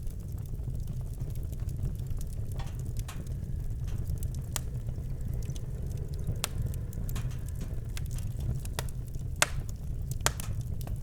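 Campfire crackling, with sharp pops every second or so over a steady low rumble; the loudest pop comes about nine seconds in.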